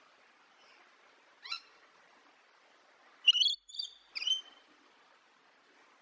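Wild bird calls: a single short call about a second and a half in, then three quick, louder high chirps about halfway through, over a faint steady hiss.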